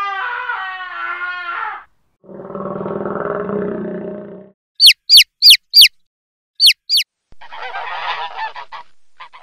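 A run of different animal calls: first a wavering, pitched call, then a low buzzing growl, then six loud, sharp high chirps in two groups (four, then two). Near the end come the honking calls of swans.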